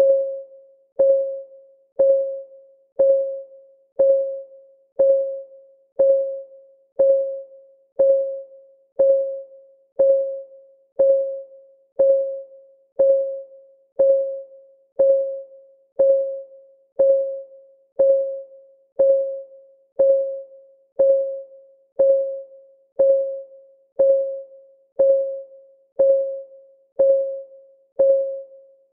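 Clock ticking sound of a countdown timer: a short, pitched tick exactly once a second, each ringing briefly and dying away.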